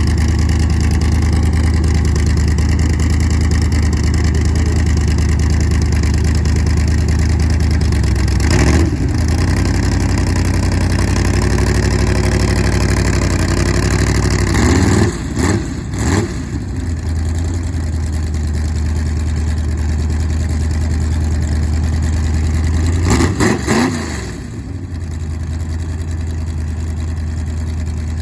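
Car engines idling loudly with a deep steady note, blipped by the throttle: one rev about a third of the way in, held slightly higher for a few seconds, two quick revs about halfway, and two more a little before the end.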